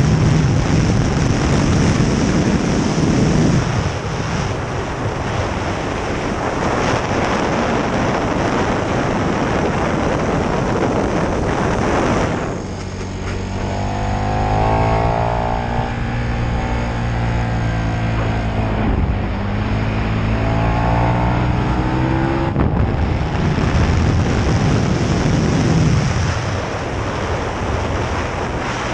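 KTM 1290 Super Duke R's V-twin engine running hard on track under heavy wind rush. About twelve seconds in the wind noise drops away for some ten seconds and the engine note comes through clearly, rising and falling with the throttle, before the wind rush returns.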